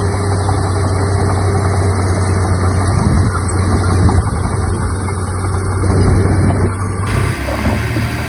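Heavy diesel earthmoving engine running steadily with a deep, even drone, swelling a little now and then under load. About seven seconds in the sound changes abruptly.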